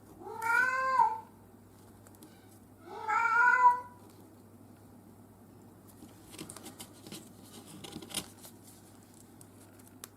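A domestic cat meowing twice, each meow rising and then falling in pitch, about two and a half seconds apart. In the second half come faint clicks and scratches from cutting craft foam.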